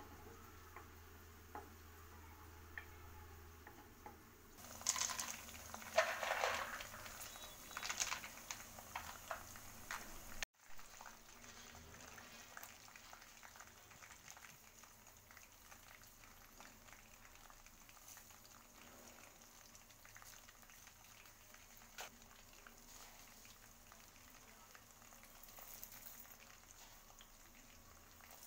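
Green chillies sizzling in hot oil in a kadai, with a louder stretch of crackling and wooden-spatula stirring for several seconds starting about four seconds in. After a sudden break about ten seconds in, a quieter steady sizzle with light ticks as peanuts, garlic and coriander seeds fry with the chillies.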